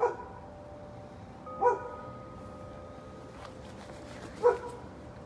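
A dog barks three times, a second or two apart. Wind chimes ring softly underneath with long, steady tones.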